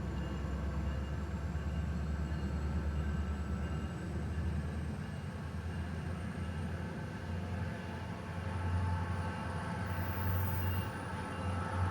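SunRail commuter train's diesel locomotive running, a steady low rumble that swells a little near the end.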